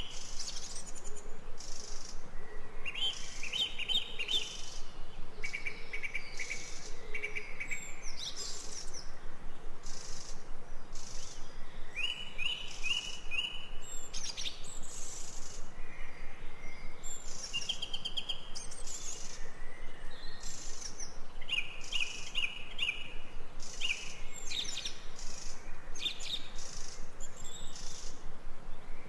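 Forest birdsong: birds repeating short, high trilled phrases every second or two, over a fast, even high-pitched pulsing.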